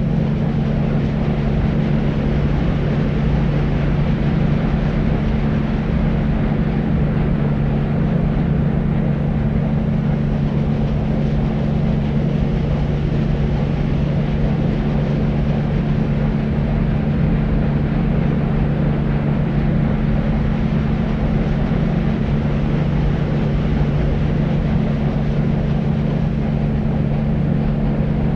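Deep white noise for sleep: a steady, unchanging low rumbling hiss, its weight in a deep hum-like band, with a softer hiss above.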